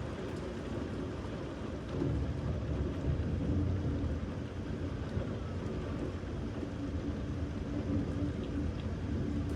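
Steady rain falling, with a low rumble of thunder swelling about two seconds in and again near the end.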